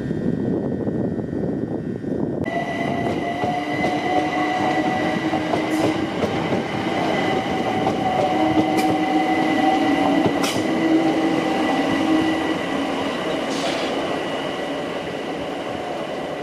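Train running past, with steady whining tones and a few sharp clicks from the wheels on the rails; it grows louder toward the middle and eases off near the end.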